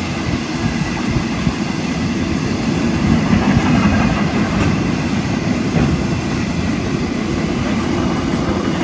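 A long freight train's wagons rolling past on steel rails: a loud, steady rumble of wheels, with some clickety-clack over the rail joints and a faint high wheel squeal.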